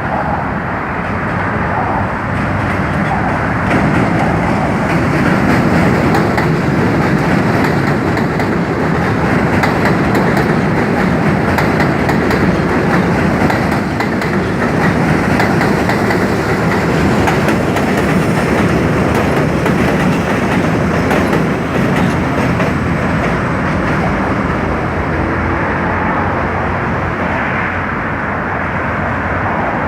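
New York City subway train running past with a steady rumble, its wheels clacking over the rail joints.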